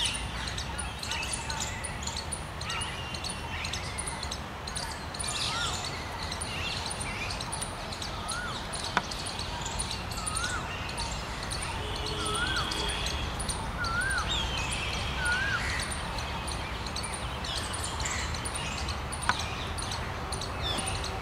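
Birds calling: one repeats a short rising-and-falling whistled note about every second or two, with other higher chirps scattered around, over a steady low rumble. Two sharp clicks stand out, one near the middle and one near the end.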